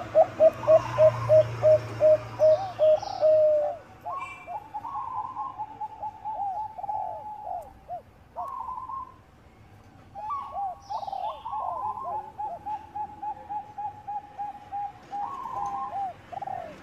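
Zebra doves (Bangkok-bred perkutut) cooing: rapid trains of short, clipped notes in several phrases, the first the loudest, with a short lull around eight to ten seconds in.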